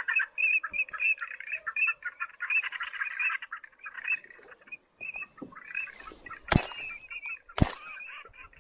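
Waterbirds calling in dense chattering bursts over the marsh. Two shotgun shots come about a second apart near the end.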